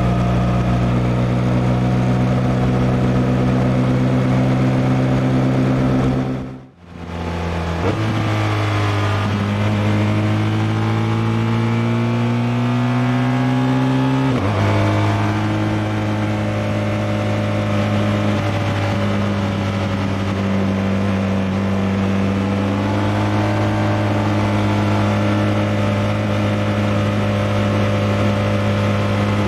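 BMW R1200R LC's 1170 cc boxer twin engine running at a steady speed under way. About seven seconds in the sound briefly fades out and comes back. The engine then accelerates, rising in pitch for several seconds, drops in pitch at a gear change about halfway through, and carries on at a steady cruise.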